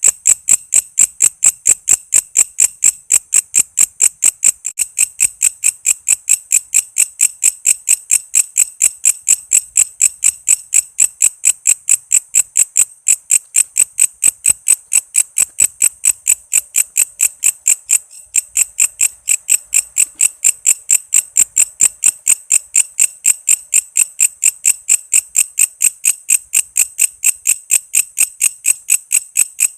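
Walang kece insect calling, a steady run of sharp high chirps repeated about four times a second.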